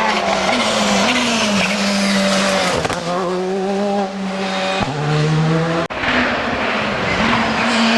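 Rally car engine running hard at high revs, its pitch wavering, then dropping sharply about five seconds in and climbing again. There is a brief cut-out in the sound just before six seconds.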